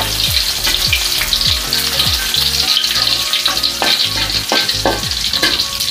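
Chopped garlic sizzling in hot oil in an aluminium wok, with a metal spatula scraping and knocking against the pan over and over as it is stirred.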